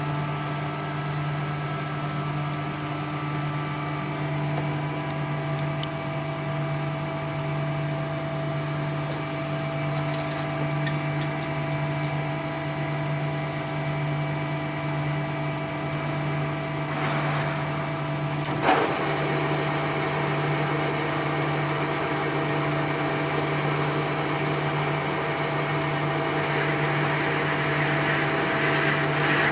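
A machine running steadily with a constant hum and several steady tones, with one sharp click about two-thirds of the way through and a higher hiss joining near the end.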